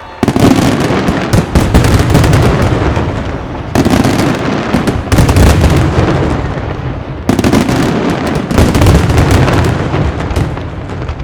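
Aerial fireworks display: a dense, rapid barrage of shell bursts and crackling reports in three waves. Each wave starts abruptly, about a quarter second in, at about three and a half seconds and at about seven seconds, and the barrage thins out near the end.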